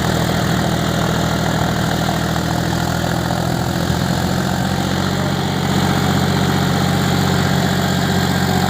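John Deere 5105 tractor's three-cylinder diesel engine running steadily.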